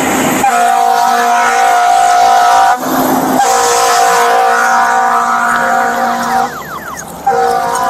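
A vehicle horn blaring in long, steady blasts, broken off briefly twice.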